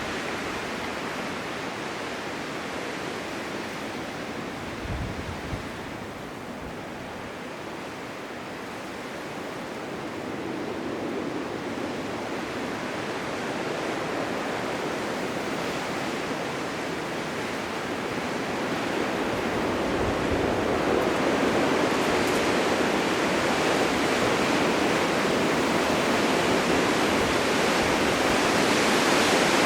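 Blizzard wind blowing as a steady rushing noise, swelling louder over the second half. There is a brief low thud about five seconds in.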